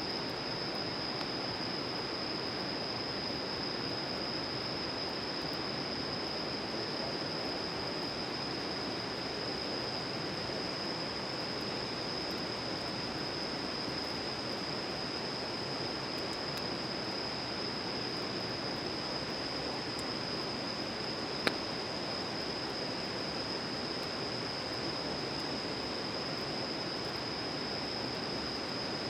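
Steady rushing noise, like flowing water, under a continuous high-pitched tone. One sharp click comes about three-quarters of the way through.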